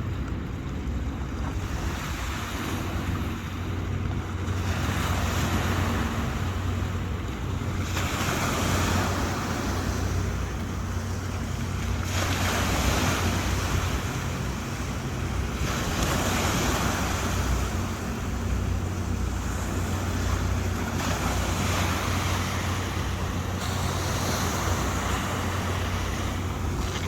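Thames Clipper riverbus under way on the River Thames: a steady low engine drone under rushing water and wind buffeting the microphone. The water-and-wind rush swells and eases every few seconds.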